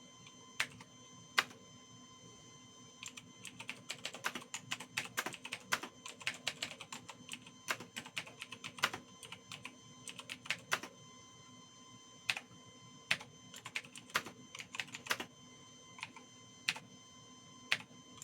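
Typing on a computer keyboard: a couple of single keystrokes, then a fast run of key clicks for several seconds, then scattered keystrokes.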